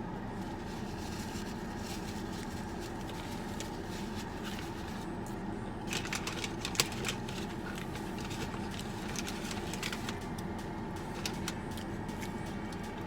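Steady low hum of an idling car engine heard from inside the cabin. A brief cluster of sharp clicks and crackles comes about six seconds in, with one louder click among them.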